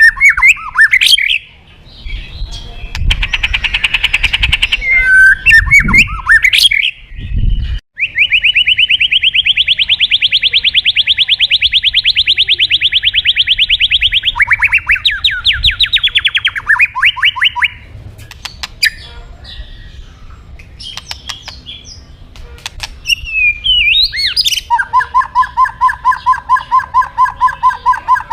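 White-rumped shama singing a loud, varied song: sharp chattering phrases, then a long fast trill lasting about six seconds, and near the end a run of quick repeated notes.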